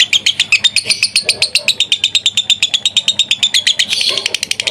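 Lovebird's long 'ngekek' chatter: an unbroken rapid trill of sharp, high, clicking notes, about nine a second.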